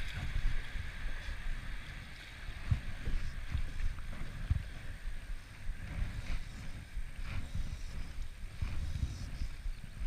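Wind rumbling on the microphone in a small fishing boat, with a few soft knocks.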